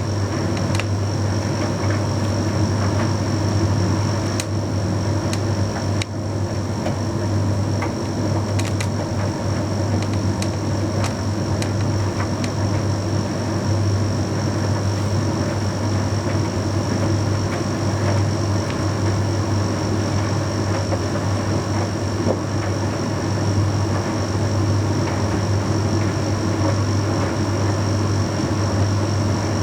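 Bosch Series 6 heat pump tumble dryer running steadily mid-cycle on a load of shirts: a constant low hum with a faint high whine, and a few light clicks in the first half.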